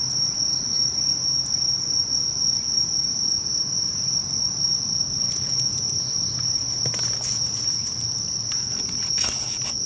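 Insects trilling in one unbroken, high, steady tone, with scattered light crackles from a wood campfire.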